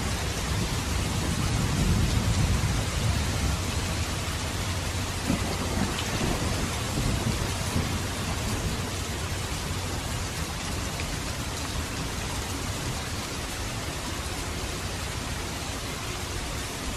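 Steady rain falling, a dense even hiss. A low rumble swells in the first couple of seconds and fades away over the next few.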